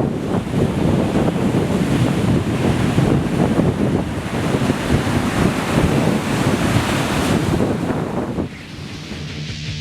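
Strong wind buffeting the microphone over heavy storm surf breaking on the beach, with both whipped up by a passing hurricane. Near the end the wind and surf cut off and rock music begins.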